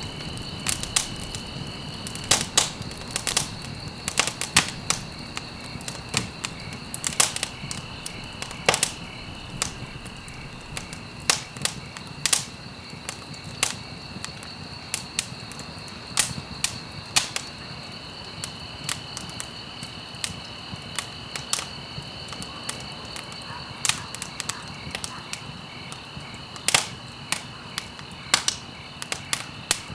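Wood fire in a fireplace crackling: frequent sharp, irregular pops and snaps over a steady low rush of burning logs.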